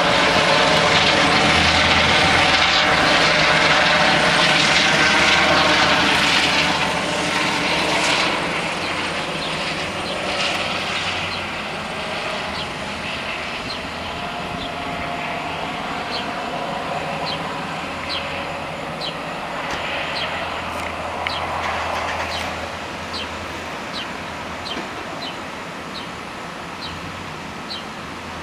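Helicopter rotor and engine noise overhead, loud for the first six or seven seconds and then fading steadily. From about halfway on, a short high chirp repeats roughly twice a second over the dying engine sound.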